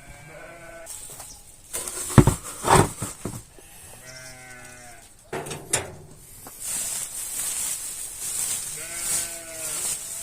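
Sheep bleating, three separate calls a few seconds apart, with loud knocks and clatter in between and rustling noise through the second half.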